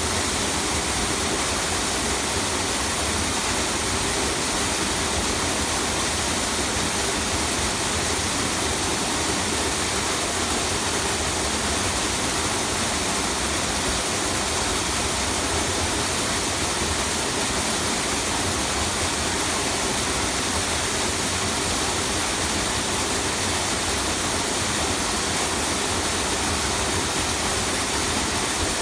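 A small waterfall with several tiers, falling water rushing in a steady, unbroken wash.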